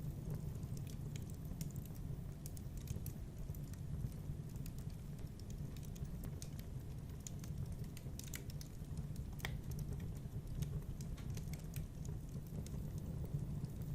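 Wood fire burning in a fireplace: a steady low rumble of flames with irregular small crackles and snaps, one sharper pop about nine and a half seconds in.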